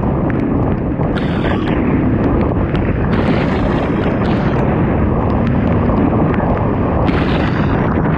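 Off-road motorcycle riding at speed: wind buffeting the microphone over the steady engine note, with scattered sharp ticks and brief hissy surges about a second in, around three seconds and near the end.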